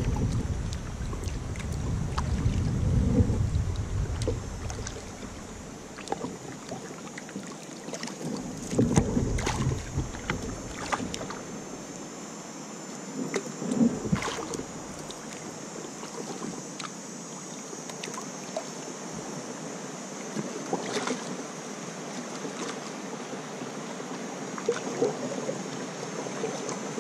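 Kayak paddling on a river: irregular paddle splashes and water sounds against the hull, with wind buffeting the microphone at times, most in the first few seconds.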